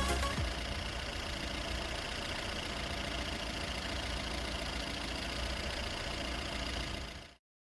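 Lada Granta's VAZ-21116 1.6-litre eight-valve four-cylinder engine idling steadily, stopping abruptly near the end.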